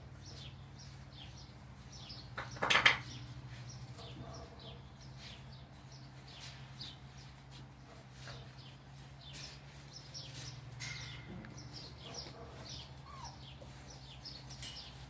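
Many short, quick chirps, like small birds calling, over a steady low hum, with one loud short sound about two and a half seconds in.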